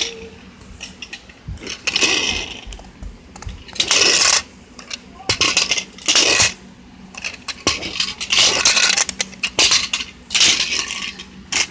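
Clatter of small plastic toys being handled and knocked together: a string of short rattling, rustling bursts and a few sharp knocks.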